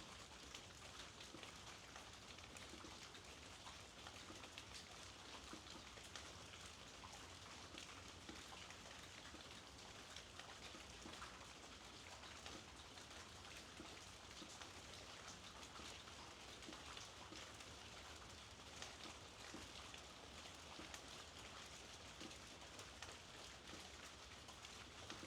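Soft, steady rainfall: an even hiss dotted with many small drop ticks.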